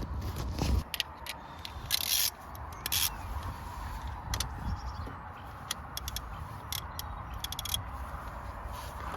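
Hand tools clicking and knocking against metal car parts, with a short scraping burst about two seconds in, over a steady low hum, during removal of a starter motor.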